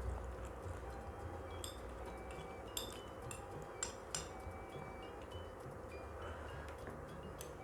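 Close-miked eating of gyoza: wet mouth clicks and chewing, a few sharper clicks between about 2 and 4 seconds in, over a steady low hum, with short high ringing tones.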